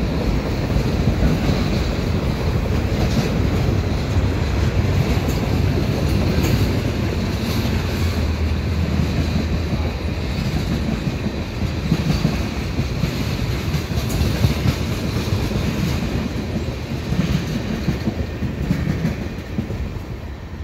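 Freight cars of a CN mixed freight train rolling past, centerbeam flatcars and tank cars, their steel wheels clattering on the track: a steady rumble with scattered clicks. It fades near the end as the last car goes by.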